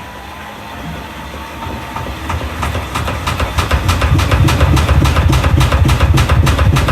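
Washing machine running, its drum rumbling and rattling with rapid, regular knocks that build up and grow louder about two to three seconds in, then keep a steady beat.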